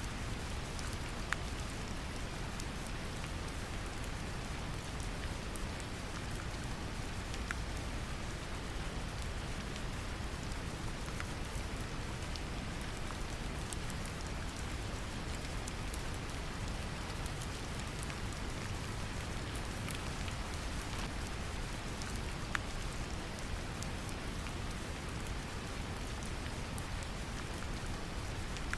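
Steady brown noise, a deep even rumble, mixed with gentle rain pattering on a surface, with scattered single drop ticks.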